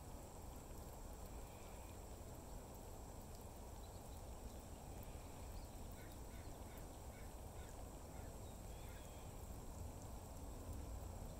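Faint outdoor background with a steady low rumble; about five and a half seconds in, a distant bird gives a quick series of about six short calls.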